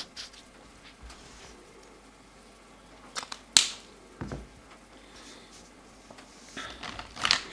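Plastic felt-tip markers being handled: a few sharp clicks, the loudest about three and a half seconds in, followed by a soft thump, and a cluster of clicks and rustling near the end as a marker is picked up and uncapped.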